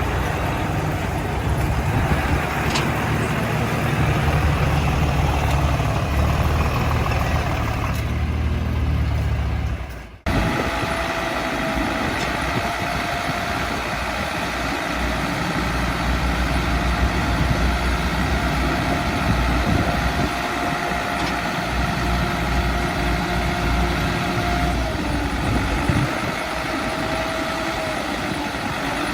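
Diesel engines of earthmoving machinery, a bulldozer and dump trucks, running steadily with a heavy low rumble. The sound drops out abruptly about ten seconds in, then resumes with a steady whine that holds through most of the rest.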